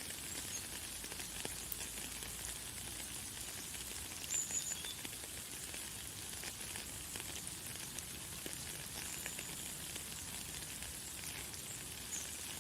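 Light, fine rain falling: a steady hiss of many small drops pattering. A bird gives a few brief high chirps, the loudest about four and a half seconds in.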